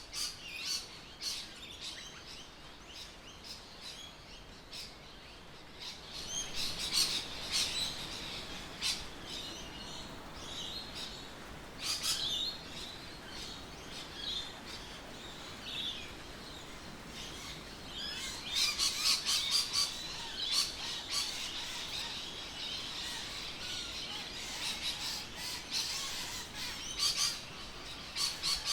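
Songbirds chirping and calling outdoors, with quick high chirps in clusters that grow busier a quarter of the way in and again in the last third.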